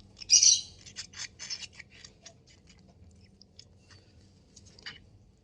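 Baby parrot at a hand-feeding: a short raspy call, then a run of small sharp clicks that thin out and fade, with one last faint click near the end.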